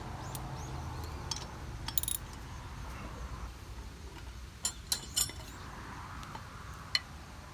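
Small metal mower parts being handled: scattered clinks and knocks, loudest about two seconds in, with a cluster a little after halfway, over a low rumble that fades out midway.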